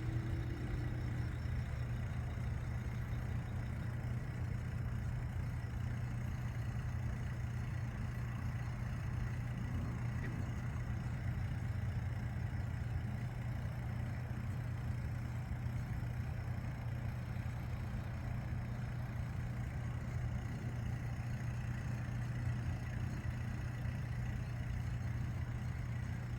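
Steady low hum of a lake aeration pump running, unchanging throughout, with a faint even hiss above it.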